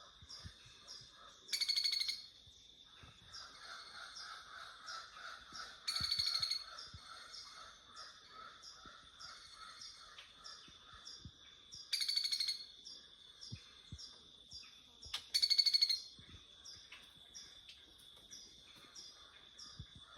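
Birds calling in rainforest: many short repeated chirps over a steady high-pitched drone. Four loud, harsh, raspy squawks of about half a second each stand out as the loudest sounds.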